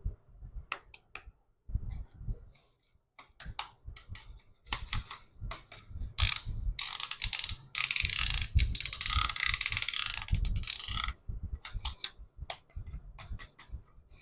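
Plastic toys being handled, with scattered clicks and knocks and a rapid ratchet-like clicking that runs for about three seconds past the middle.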